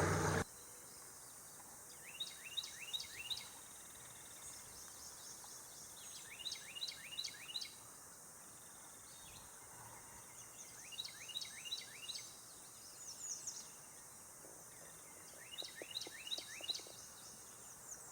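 A boat motor running steadily shuts off about half a second in. A songbird then sings four times, each a rapid run of short, high, falling notes, over faint outdoor background.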